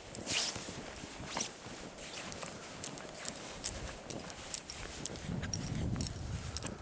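Footsteps crunching in snow: a string of short, irregular crunches and squeaks, with a low rushing noise joining in near the end.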